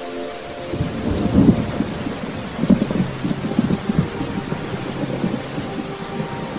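Steady rain with a rolling thunderclap that breaks about a second in, crackles loudest twice, and rumbles on for several seconds before fading back into the rain.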